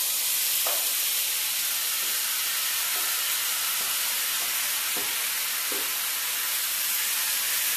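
Diced chicken frying in hot oil in a cast iron skillet over high heat: a steady sizzle, with a few light knocks.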